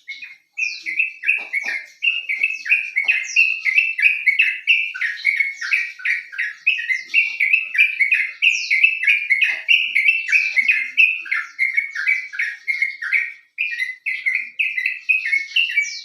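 Yellow-vented bulbul (trucuk) song: a fast, unbroken chatter of short falling notes, several a second, with now and then a higher sweep. This is the kind of lure song played to caged birds to get them singing.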